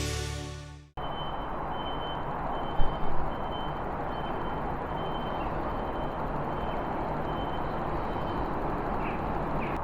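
Intro music fades out in the first second, then steady outdoor traffic noise with a faint beep repeating about twice a second. Two sharp knocks come about three seconds in.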